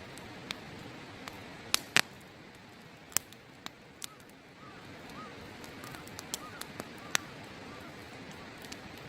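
Open wood fire crackling, with irregular sharp pops and snaps of burning wood, several of them loud, over the steady rush of a river.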